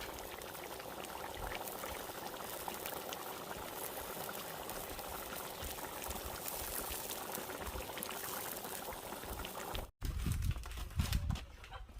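A pot of food boiling: a steady bubbling hiss with small crackles. About ten seconds in it cuts off abruptly, and low thumps and rumble follow.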